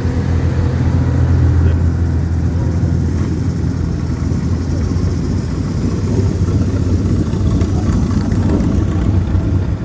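Low engine note of an old car driving slowly past, steady throughout and loudest in the first couple of seconds.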